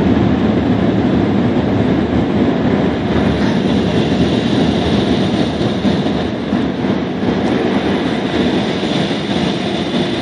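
Drive-thru car wash air dryer blowers rushing steadily over the vehicle, heard from inside the car, easing a little near the end.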